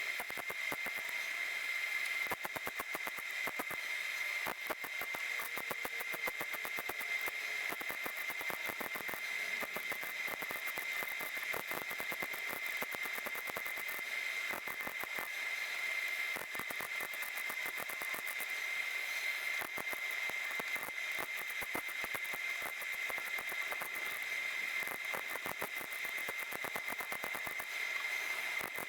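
Electric welder crackling steadily as a patch panel is welded into a rust hole in a car body, with a steady high whine underneath.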